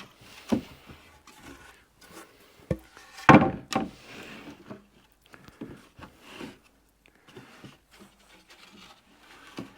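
Wooden dock boards being handled: scattered knocks and scrapes of wood, the loudest knock a little after three seconds in.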